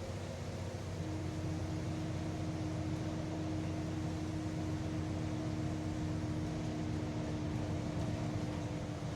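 Solaris Urbino 12 city bus running steadily, heard from inside the driver's cab: a constant engine and drivetrain hum, with a steady whine that sets in about a second in.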